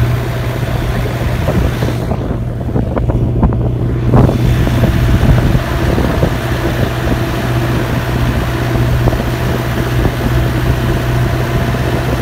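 Massey Ferguson 5430 Dyna-4 tractor's Perkins four-cylinder turbo diesel running steadily under load, pulling about 12 tonnes of fertilizer. Wind buffets the microphone.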